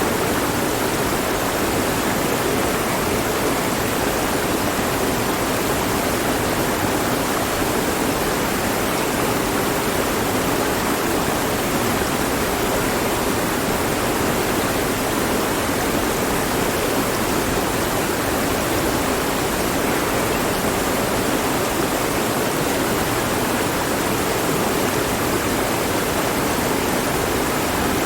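Mountain stream flowing over rocks: a steady, even rush of water with no breaks or sudden sounds.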